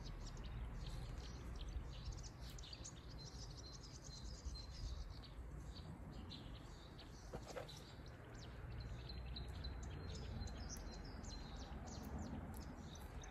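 Songbirds chirping and singing, many short high calls overlapping throughout, faint. One short rustle about seven seconds in.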